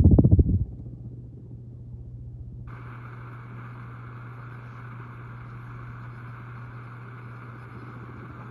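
Minka Aire Supra ceiling fan with a 188x15 motor running with a steady low motor hum. A brief low rumble comes at the very start, and a steady airy hiss joins suddenly about a third of the way in.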